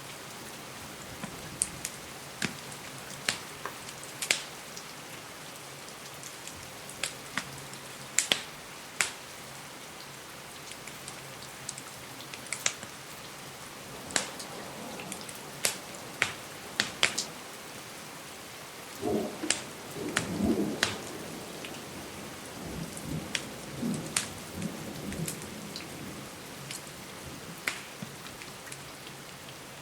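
Steady rain on a window, with irregular sharp crackles and pops from a wood fire. About two-thirds of the way through, a low rumble of distant thunder rises and fades over a few seconds.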